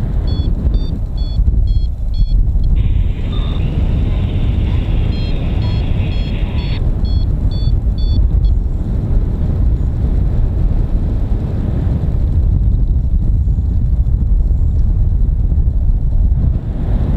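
Strong wind buffeting the microphone in flight under a paraglider, a steady loud rumble. Over the first eight or so seconds a variometer beeps in short, rapid high tones, joined from about three seconds in by a steadier high tone lasting about four seconds; then only the wind remains.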